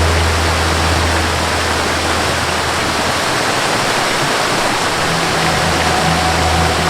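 Waterfall rushing steadily, with a soft sustained melody of held notes underneath; a new, higher note comes in about five seconds in.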